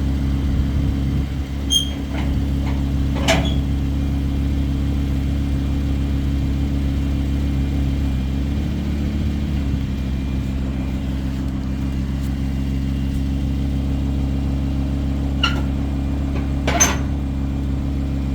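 Lamborghini Huracán's V10 engine idling steadily, with a slight lift in pitch about halfway through. A few brief clicks are heard over it.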